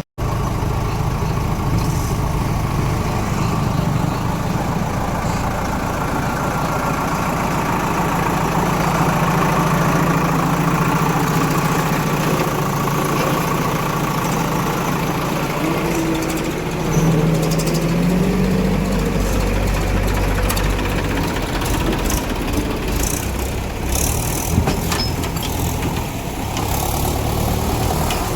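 Heavy diesel engine of farm or earthmoving machinery running steadily, revving up briefly about two-thirds of the way through, with a few sharp clicks near the end.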